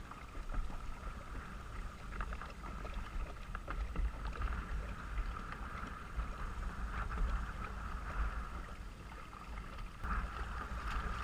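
Kayak on a river: small splashes and knocks of paddle and water against the boat, over a low wind rumble on a helmet-mounted camera's microphone, with a steady high drone in the background.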